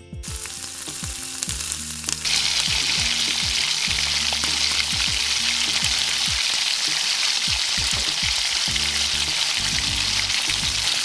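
Chicken pieces frying in a hot pan, a steady sizzle that grows louder about two seconds in.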